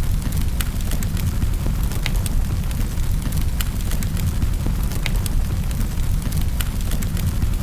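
Fire burning in a fireplace: a steady low rumble with irregular sharp crackles and pops.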